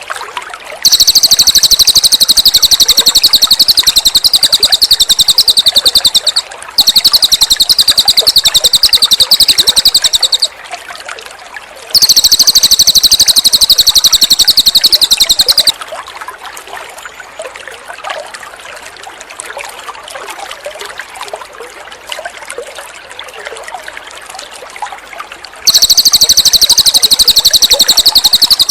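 Cililin songbird singing loud, high, very fast rattling trills in bouts of about four to six seconds, three times and again near the end. Trickling water fills the gaps between bouts.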